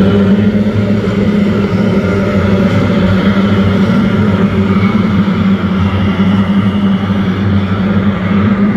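Racing motorboat engines running at speed: a loud, steady drone.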